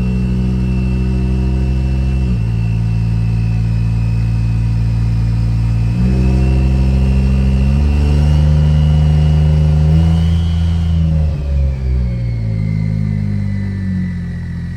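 Turbocharged 2JZ-GTE VVT-i inline-six engine running under load, its pitch stepping down and up in sudden jumps as the eight-speed automatic changes gear. A high thin whine sits above it, climbing a little and then falling away with the engine note after about eleven seconds as it comes off throttle.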